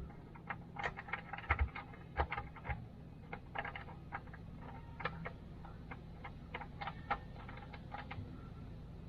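Irregular clicks and light metallic taps of hand tools working under a vehicle, a few to several a second and uneven in strength, over a faint steady hum.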